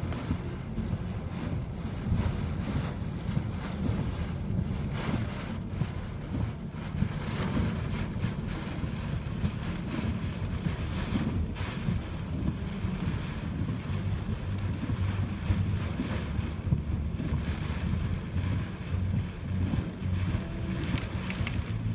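Typhoon wind buffeting the microphone as a steady heavy low rumble, over the wash of storm-surge waves surging onto the shore.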